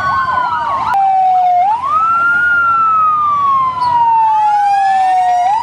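Fire engine sirens: a fast warbling siren in the first second, then a long wail that rises, falls slowly over about three seconds, and starts to rise again near the end, with other sirens overlapping.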